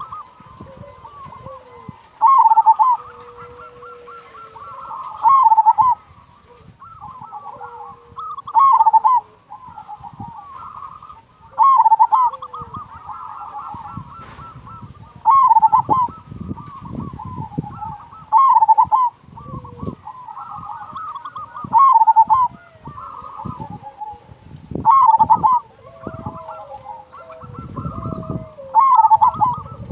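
Zebra doves (perkutut) cooing: a loud rolling phrase about every three seconds, with other doves cooing more softly in between.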